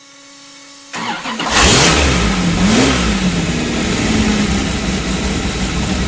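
8.55-litre V12 LS engine, built from two GM LS1 alloy V8 blocks on a billet crank, starting on an engine dyno. It turns over about a second in and fires with a loud burst, its revs rise and fall once, then it settles into a steady idle.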